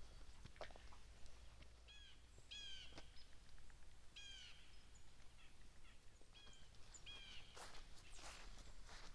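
Faint, quiet outdoor air with a few short bird calls, some of them in pairs, and a few soft scattered clicks.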